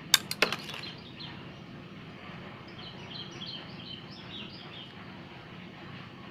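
Three sharp clicks in the first half second, then a small bird chirping a quick run of short, high notes for about two seconds, over steady low background noise.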